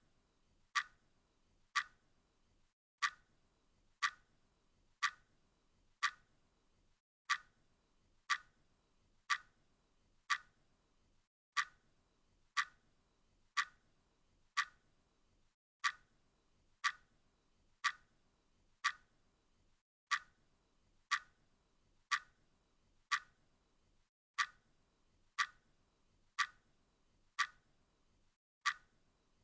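Clock ticking steadily, one sharp tick about every second, with a slight hitch in the rhythm after every fourth tick.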